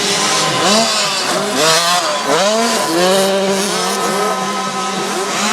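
Several 65cc two-stroke motocross bikes racing, their engine pitch repeatedly rising and falling with throttle and gear changes, over a steady hiss.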